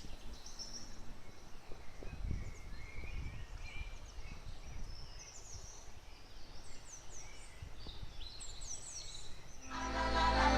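Outdoor ambience of small birds chirping and calling in short, repeated notes over a low, uneven rumble. Music comes in near the end.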